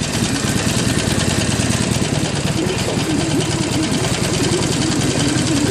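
Harley-Davidson Iron 883N's air-cooled V-twin engine running steadily, heard up close from the bike's seat.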